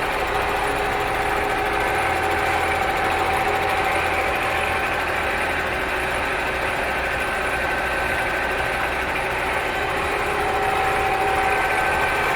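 Milling machine surfacing the deck face of a Kia G4KD cylinder block: a steady machine run with a constant whine in several pitches over a low hum.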